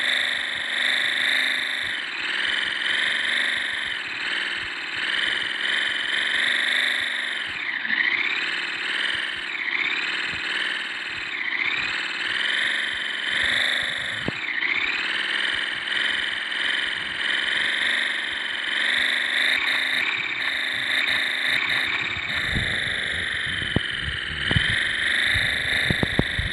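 Honda Hornet motorcycle engine running under way, its pitch repeatedly dropping and climbing back every few seconds as the rider changes revs, with some low thumps near the end.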